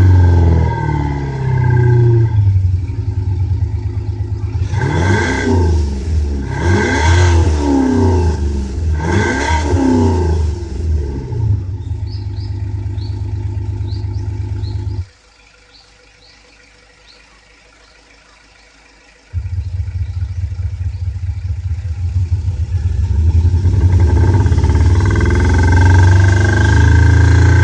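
Simulated engine sound played through a THOR Active Sound exhaust speaker: a steady idle with three quick revs about two seconds apart, then the sound cuts off for about four seconds and comes back idling, getting louder toward the end.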